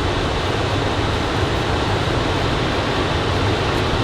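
Ocean surf breaking and washing onto a sandy beach, a steady, even rushing noise with no single wave crash standing out.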